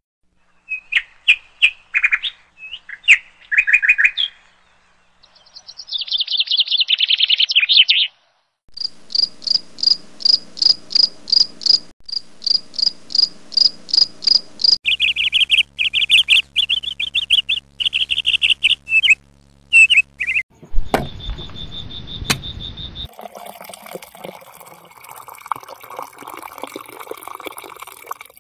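Birds chirping and singing in a run of different high calls, one part a quick regular chirp repeated about three times a second.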